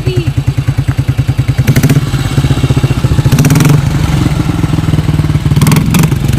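BMW motorcycle engine, still cold, idling with an even, fast beat; about two seconds in it picks up and runs louder and smoother as the bike pulls away gently, without being revved hard.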